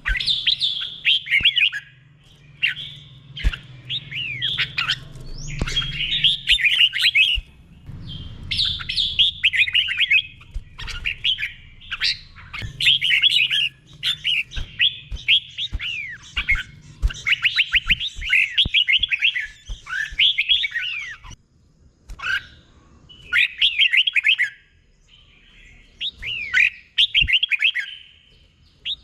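Red-whiskered bulbul singing in the doubled-phrase 'beurn' style: phrase after phrase of quick, clear down-slurred whistled notes, each phrase a second or two long with short pauses between them. A faint low hum runs under the first few seconds.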